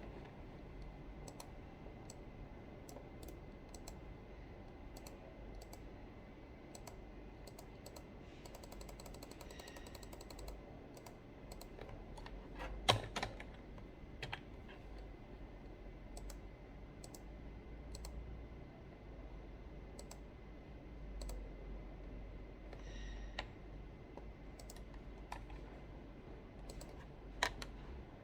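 Computer keyboard keys being tapped and clicked at an irregular pace, with a quick run of taps about nine seconds in and a few louder clicks in the middle and near the end.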